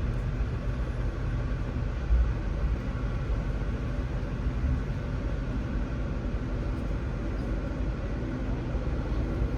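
Steady rumble of a moving Amtrak passenger train heard from inside the car, with one brief louder low thump about two seconds in.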